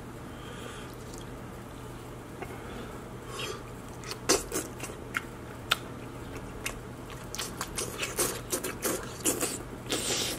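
Close-miked wet chewing and lip smacking of king crab meat in sauce. The first few seconds are quiet, then sharp clicks and squelches come in irregularly and grow more frequent near the end.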